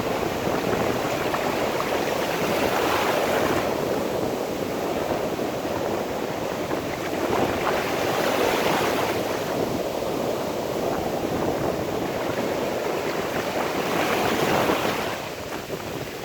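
Sea waves washing onto the shore, the surf swelling and fading about every five seconds.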